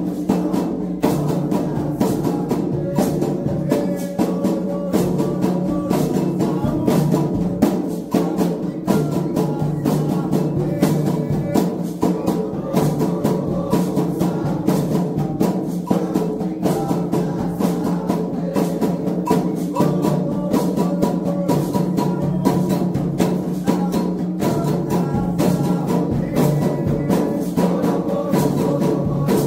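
Candomblé ritual music: atabaque hand drums beating a fast, steady rhythm under a chorus of voices singing together.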